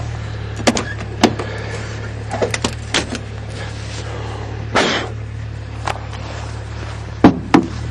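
A diesel van engine, running on a Jetta diesel and just cold-started, idles steadily in the background as a low hum. Over it come footsteps crunching through fresh snow and a handful of sharp clicks and knocks, with two loud ones near the end.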